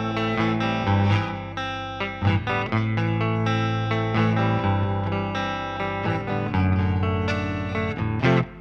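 Electric guitar played through a Line 6 Helix amp-and-cab model, a run of sustained chords and single notes. The playing stops briefly just before the end.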